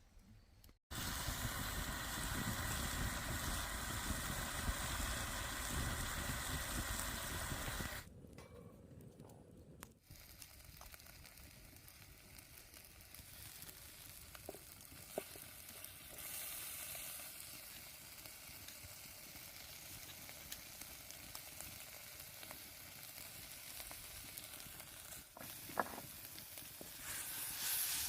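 Wood fire burning in a fireplace, a steady hissing with small crackles. It is louder for the first several seconds, then drops to a quieter hiss after an abrupt change about eight seconds in.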